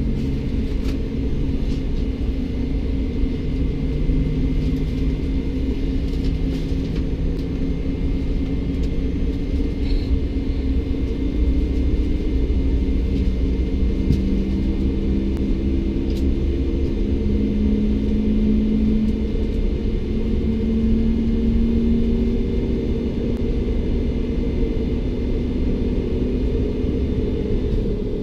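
Steady low rumble inside the cabin of a Bombardier CS300 airliner on the ground, with several hums slowly wavering up and down in pitch.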